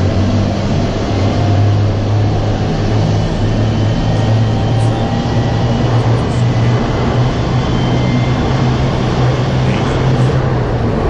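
Narrow-gauge diesel railcar running along the line: a steady rumble of the running train with a low, even engine drone.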